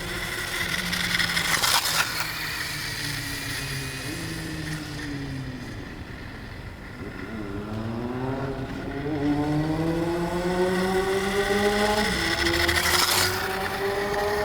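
DuraTrax DXR500 electric RC motorcycle's brushless motor and rear chain drive whining, the pitch dropping as it slows and then climbing steadily as it speeds up again. Two short scraping noises come through, one near the start and one near the end.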